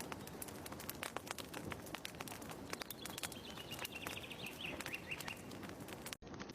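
Fireplace fire crackling with irregular sharp pops and snaps over a soft hiss, with a bird's chirping call drifting slightly down in pitch in the middle. The sound cuts out for an instant near the end.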